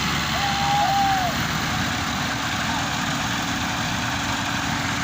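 Tractor engines running steadily, with two short whistles in the first second and a half.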